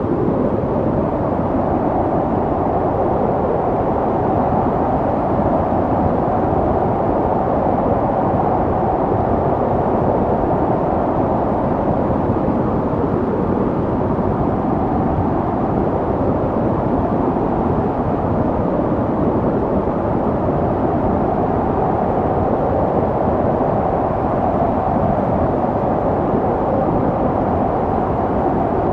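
Snowstorm wind: a steady, low rushing noise with no breaks or separate gusts.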